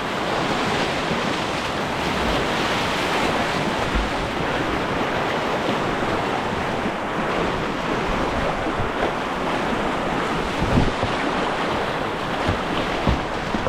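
Whitewater rapids of a river rushing steadily, with a few dull thumps near the end.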